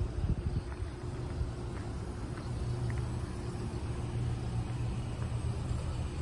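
A parked police SUV's engine idling: a steady low hum that grows more even and prominent about two and a half seconds in. There are a few uneven low bumps near the start.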